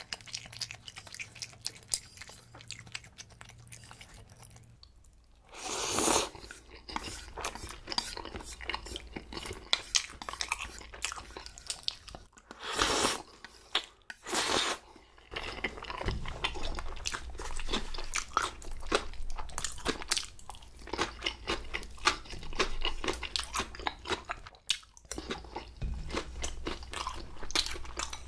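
Close-miked chewing and crunching of jjajang (black-bean-sauce) noodles and their vegetable toppings, with steady wet mouth clicks and a few louder, longer bursts.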